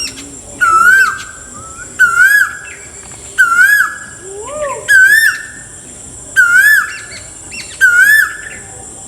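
A wild bird repeating the same short whistled call six times, about every one and a half seconds; each call rises, falls and trails away. A second, lower call comes once near the middle, over a steady high-pitched drone.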